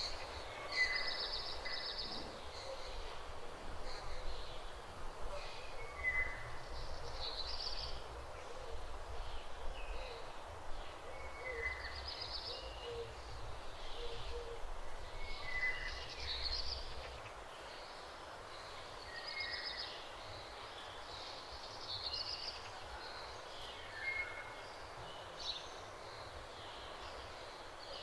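A small bird singing the same short, high phrase again and again, every few seconds, over a low rumble that fades out about two-thirds of the way through.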